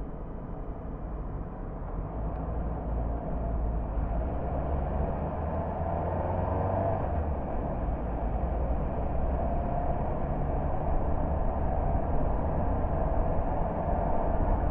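Car driving along a road: a steady low rumble of engine and tyre noise that gradually gets louder.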